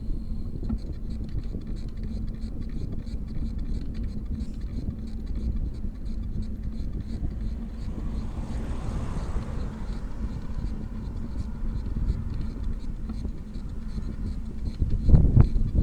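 Wind buffeting the microphone over road rumble while riding a bicycle, with a vehicle passing about halfway through, its hiss swelling and then fading. The wind gusts louder near the end.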